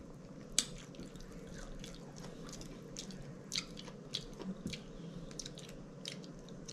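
Eating at close range: faint, irregular mouth clicks and lip smacks of chewing, mixed with light taps and scrapes of a plastic fork cutting through loaded tater tots on a plate.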